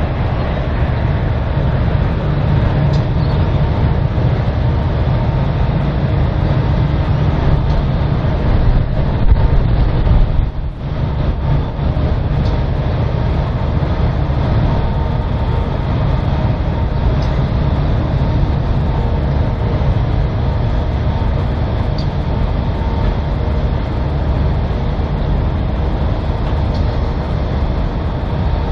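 Grain hopper wagons of a freight train rolling past: a steady rumble of steel wheels on rail, with a few faint clicks.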